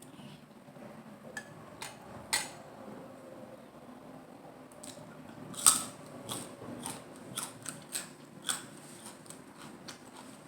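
Close-up crunching and chewing of crisp lettuce-leaf salad wraps: a series of sharp crackles, loudest about two and a half and five and a half seconds in, then a quicker run of crunches.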